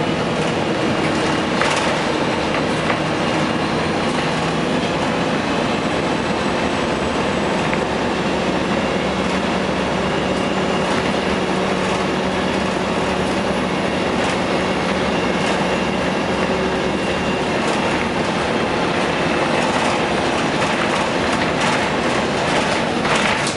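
A 2004 Gillig Phantom transit bus under way, its Cummins ISM diesel and drivetrain running steadily, with scattered clicks and rattles.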